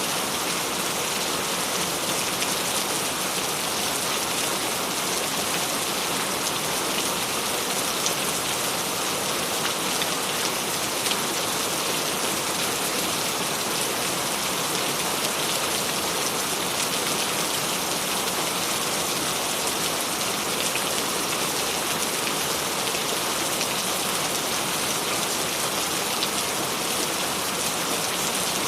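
Steady, gentle rain falling: an even hiss with scattered drop ticks, no thunder.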